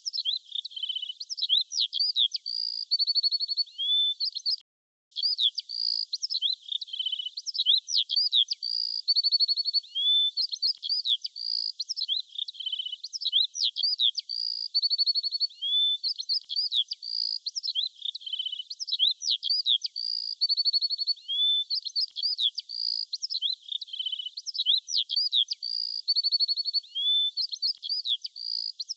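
Birdsong: high-pitched chirps, whistled glides and a short rapid trill, the same phrase repeating about every six and a half seconds, with a brief break about five seconds in.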